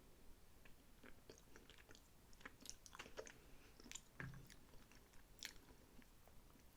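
Faint close-miked chewing of sushi: scattered soft, wet mouth clicks and smacks, with a brief low thump about four seconds in.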